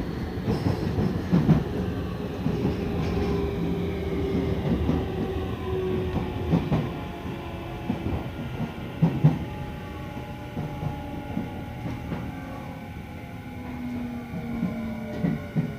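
Tokyu 5000 series electric train heard from inside the car: the Hitachi IGBT-VVVF inverter and traction motors whine in several tones that glide downward in pitch as the train slows under electric braking, with the wheels knocking over rail joints now and then.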